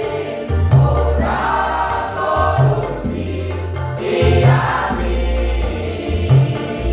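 A choir singing a song in harmony over an accompaniment with a strong, stepping bass line.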